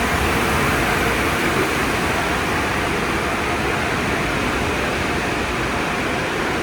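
Tunnel car wash equipment running: a steady rushing noise of water spray and machinery.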